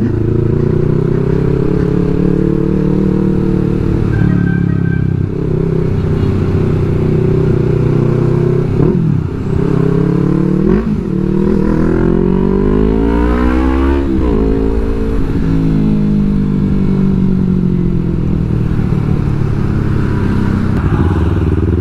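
Yamaha R3's parallel-twin engine running on the move, its revs rising and falling through gear changes, with one long climb near the middle that ends in a sharp drop.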